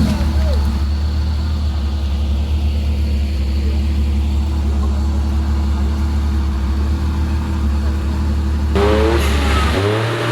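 Off-road 4x4 vehicle's engine running steadily at low revs, its note stepping up in pitch near the end.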